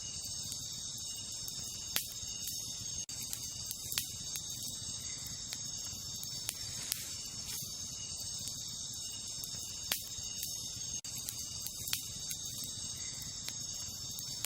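Wood fire crackling, with a sharp pop every couple of seconds, over a steady high-pitched chorus of night insects such as crickets.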